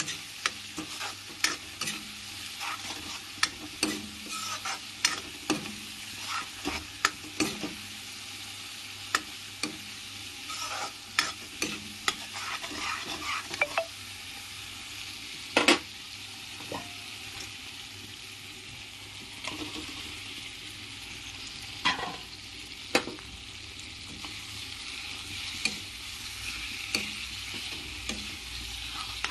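Spice paste sizzling in hot oil in a steel wok, with a metal spatula repeatedly clicking and scraping against the pan as it is stirred. The strikes are frequent at first and sparser later. The sizzle grows louder near the end as raw chicken pieces go into the pan.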